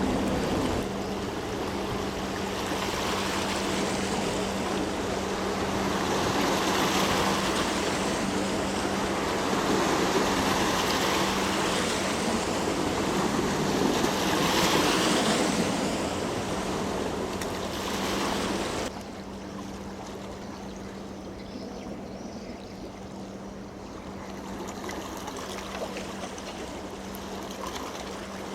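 Rushing water and wind noise with a steady low hum under it. The noise drops suddenly about 19 seconds in, leaving the hum and quieter water.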